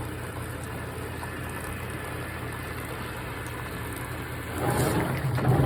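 GE top-load washing machine running with a steady low hum and water noise as its tub fills; about four and a half seconds in, it gets louder as the wash action starts.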